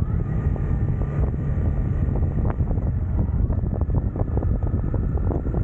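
Motorcycle riding at speed, heard as heavy wind buffeting on the microphone over the engine's steady running.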